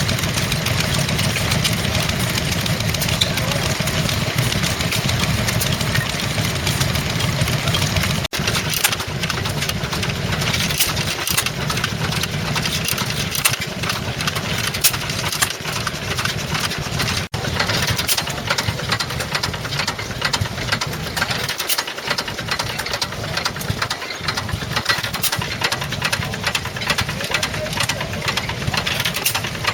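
Vintage stationary engines running, with a steady low chugging and dense rapid mechanical ticking and clatter. The sound cuts out for an instant twice.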